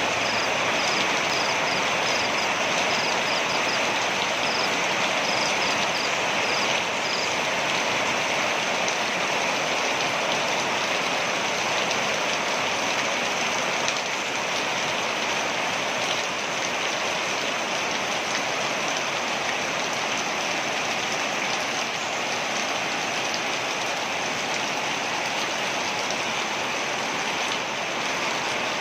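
Waterfall rushing steadily, an even wash of falling water. A series of short, high-pitched chirps repeats over the first seven seconds or so.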